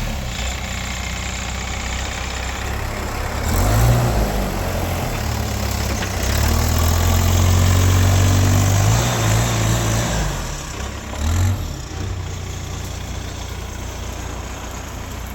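Case backhoe loader's diesel engine running and working hard as the stuck machine tries to pull free. It gets louder twice, briefly about four seconds in and again for about four seconds through the middle, then settles back to a steadier, quieter run.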